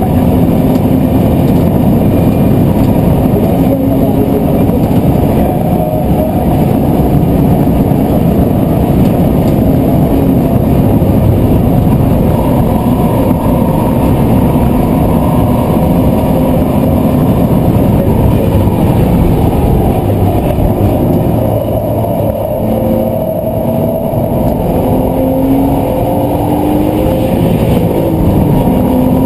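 BMW Z4's engine running hard at speed, heard inside the cabin over road and wind noise, its note rising and falling through the lap. The loudness dips briefly about three-quarters of the way through, then the note climbs again as the car accelerates.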